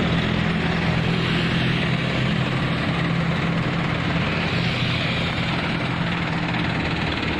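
Dump truck engine running steadily with a hum, under a steady rushing noise.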